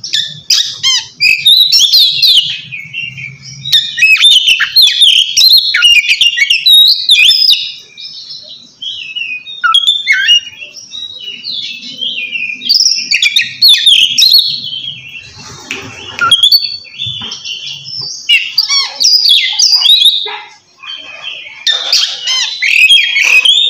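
Oriental magpie-robin (kacer) singing its loud open 'ngeplong' song, a rival-challenging call: a fast, unbroken run of varied whistles and chatters, with brief lulls about eight seconds in and near twenty seconds.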